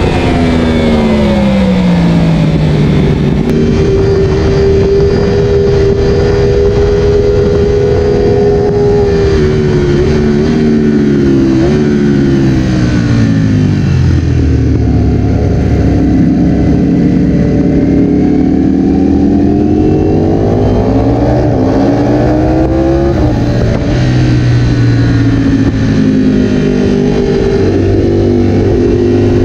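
Four-cylinder superbike engine at racing speed, heard on board: the revs fall at the start, hold steady for several seconds, drop again to a low steady note through the middle, climb about two-thirds of the way in, then fall back and level off.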